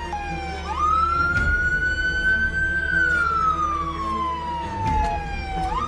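Police siren wailing: one slow rise and fall in pitch, with a quick upswing about two-thirds of a second in and again near the end.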